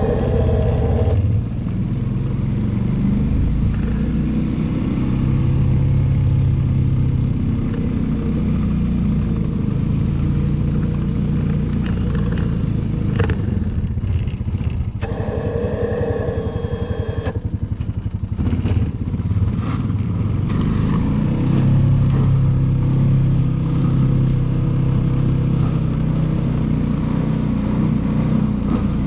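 Engine of a snow-clearing machine running steadily, its note swelling and easing as the load changes. Twice, once right at the start and once about fifteen seconds in, a higher tone comes in for about two seconds.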